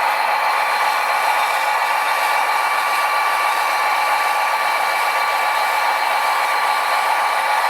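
Steady electric whine of a radio-controlled construction machine's motor, running at constant speed with a fixed high tone.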